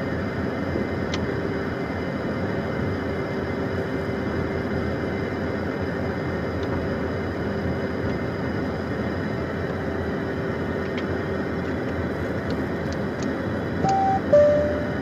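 Steady hum inside the cockpit of a Beechcraft Premier 1A business jet, with one constant low tone running through it. Near the end a two-note electronic chime sounds, a higher note and then a lower one.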